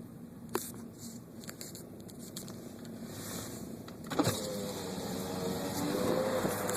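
Inside a car: a faint steady hum with a few small clicks, then about four seconds in a sudden, louder rush of noise with a faint whine under it.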